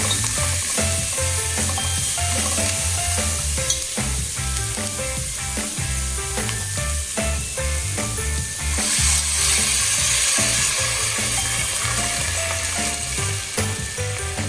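Onions, okra and spices sizzling as they fry in a pot, stirred with a spatula; the sizzle swells about nine seconds in. Background music with a steady beat plays underneath.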